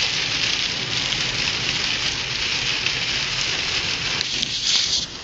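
Steady rain hitting a car while it is being driven, heard from inside the cabin as an even hiss over a low, steady rumble.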